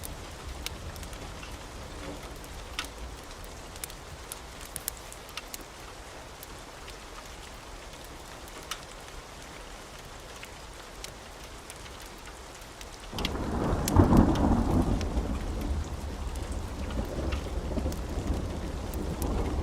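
Wood fire crackling, with scattered sharp pops over a soft hiss. About two-thirds of the way in, a deep rumble swells in suddenly, loudest just after it starts, and keeps going under the crackle.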